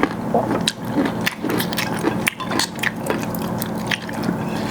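Close-miked mukbang eating sounds: a person biting and chewing deep-fried chicken with rice, with many small, sharp wet mouth clicks.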